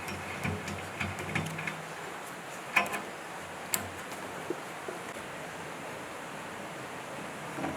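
A few scattered knocks and clicks over a steady background hiss, the sharpest about three seconds in and another a second later.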